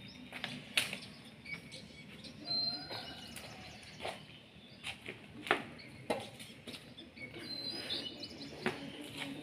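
Birds chirping and calling in short notes, with a few sharp clicks, over a faint steady low hum.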